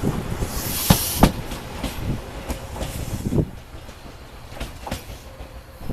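A train moving through the station, its wheels knocking over rail joints and points in uneven clacks, with a short burst of hiss about a second in; the clacks grow fainter after about three and a half seconds as it moves away.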